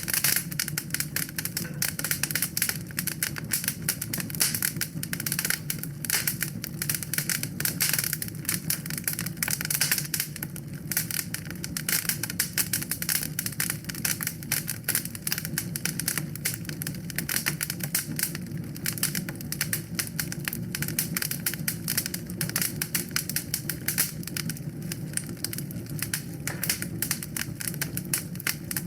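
Wood fire burning in a fireplace: dense, irregular crackling, many small cracks a second, over a steady low rumble.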